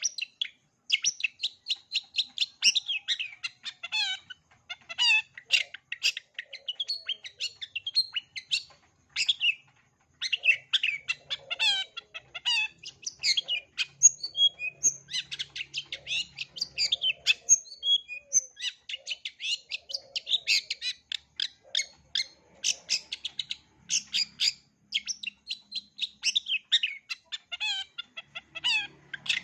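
Long-tailed shrike singing a fast, varied song of rapid chirps, trills and short whistles, strung together from mimicked calls of other birds, with brief pauses between phrases.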